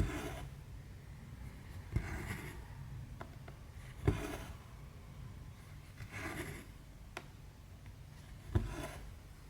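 Needle and thread being pulled through 14-count cross-stitch fabric: five stitches about two seconds apart, each a sharp tap as the needle goes through, then the swish of thread drawn after it.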